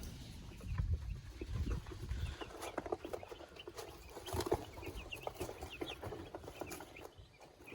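Chickens clucking, with many short high peeps, from about two and a half seconds in; a low rumble in the first two seconds.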